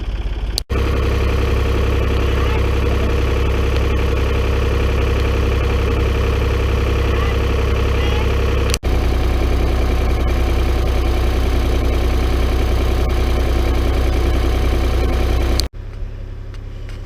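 A tractor engine running steadily. It is heard in three stretches, each ending in a sudden cut, about a second in, about halfway through and about a second before the end.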